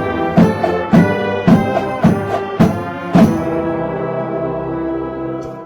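Marching band playing, brass over drum strikes about two a second. It closes on a long held chord that cuts off near the end, ending the piece.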